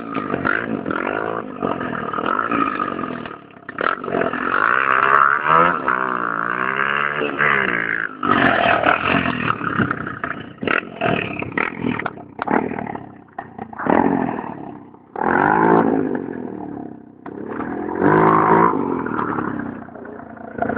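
Honda XL185 four-stroke single-cylinder engine in a Kawasaki KX125 dirt bike, running and revved up and down over and over. Its pitch climbs and falls with each burst of throttle, with quieter dips between the surges.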